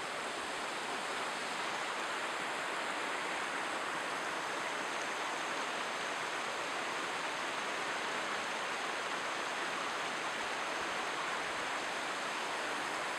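River water rushing steadily over rocks and logs, an even, unbroken roar of flowing water.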